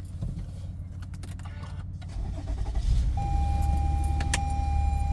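Car engine started with the key about two to three seconds in, then running at a steady idle. A steady high tone sounds alongside the running engine, and there is a single click near the end.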